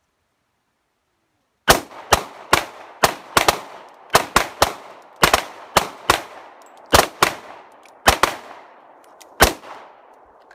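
Rapid fire from 9mm and .40-calibre handguns: about seventeen shots in roughly eight seconds, unevenly spaced and sometimes nearly overlapping, each with an echoing tail, starting about a second and a half in.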